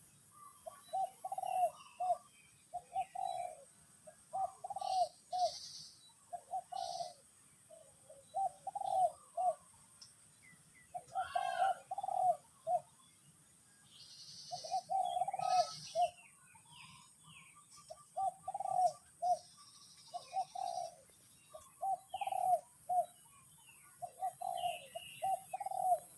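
A dove cooing over and over in short phrases of two or three notes, with other small birds chirping now and then and a steady high hiss behind.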